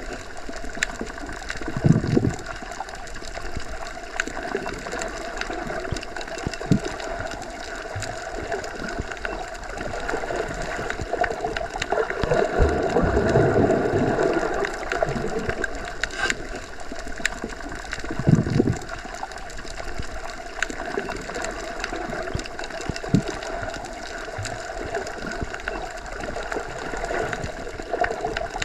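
Underwater ambience: a steady, muffled wash of water that swells up around the middle, with a few brief low thuds.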